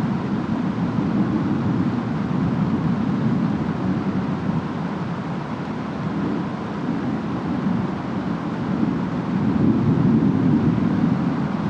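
Distant storm ambience: a steady, low rumbling wash of wind and rain, swelling louder about nine seconds in.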